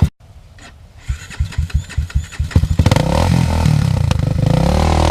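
Motorcycle engine starting: a sharp click, then a string of uneven firing pulses that quicken until the engine catches about three seconds in and runs steadily.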